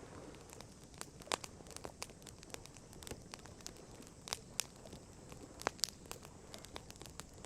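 Wood campfire crackling: irregular sharp pops and snaps over a low steady hiss, a few louder pops about a second in, around the middle, and again a little later.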